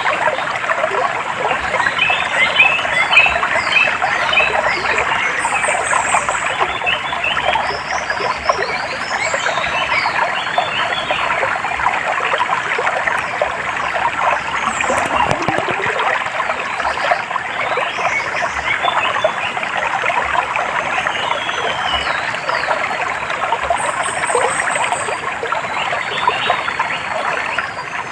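Shallow running water trickling and babbling steadily, with small birds chirping in short, high calls over it.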